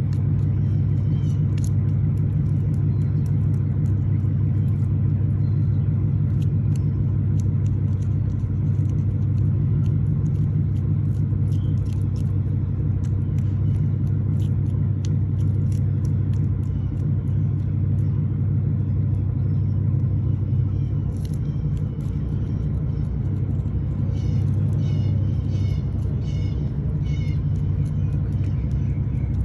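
Steady low mechanical rumble, with scattered light clicks and, near the end, a short run of repeated high chirps.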